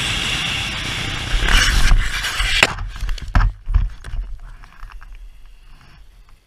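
Motorcycle running at speed under heavy wind rush, which cuts off suddenly about two and a half seconds in. After that come a few low rumbles and knocks that fade away to quiet.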